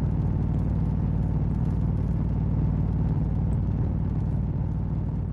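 Motorcycle engine running at a steady cruise, an even low drone that holds the same pitch throughout, with road noise.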